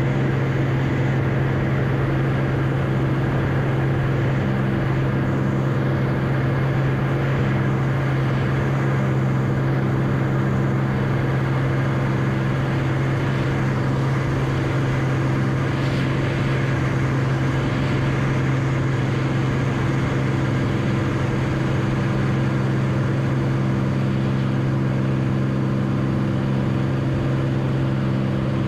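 Beechcraft Bonanza's piston engine and propeller running at a steady, unchanging drone, as heard on board the aircraft.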